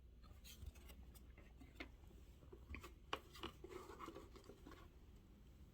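Near silence with faint, scattered clicks and a soft rustle of paper: old photographs and scrapbook pages being handled.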